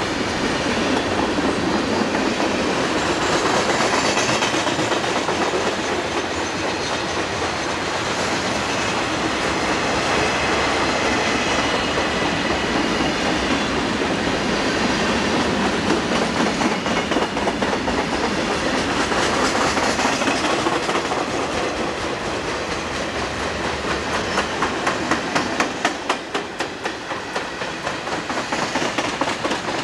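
Freight train passing at speed: the steady clickety-clack of steel wheels on the rails, with a dense run of regular clicks that grows sharper near the end.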